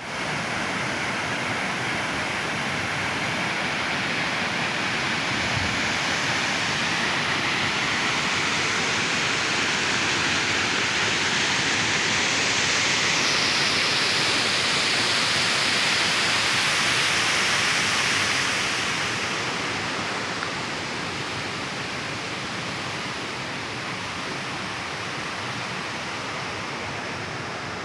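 Waterfall: water falling and rushing in a steady noise, somewhat louder through the middle and easing off a little after about 18 seconds.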